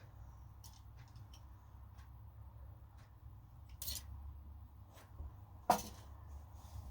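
A few light clicks and two sharper knocks over a low steady hum; the loudest knock comes near the end.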